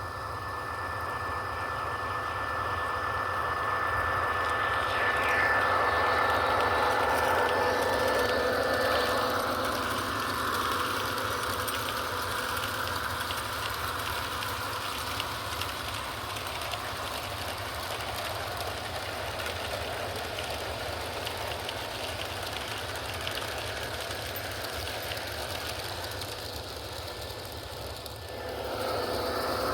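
O scale MTH model locomotive running with a mixed freight train: the locomotive's electronic diesel engine sound plays over the rolling of the cars on the track. It swells a few seconds in, eases off, and dips briefly near the end before coming back up.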